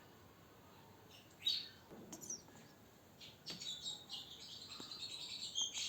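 African grey parrot chirping and whistling: a short high call about a second and a half in, then a longer run of high, wavering chirps from about three and a half seconds on.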